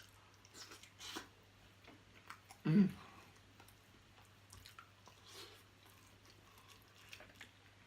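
Close-up chewing and wet mouth sounds from eating seafood boil, with scattered small clicks and smacks and one brief louder mouth sound about three seconds in.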